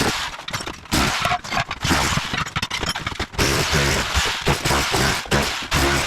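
A Bosch Bulldog Max SDS-Plus rotary hammer drives a tile chisel into floor tile in rapid hammering strokes, with tile and cement board cracking and scraping as they break up.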